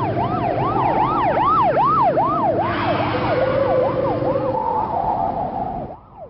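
Police car siren sounding in a rapid repeating rise-and-fall, about three sweeps a second, over a dense low rumble; about six seconds in the level drops suddenly and the siren carries on fainter.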